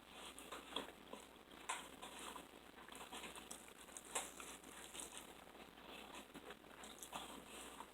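Faint eating sounds: soft chewing with a few small, sharp clicks scattered through.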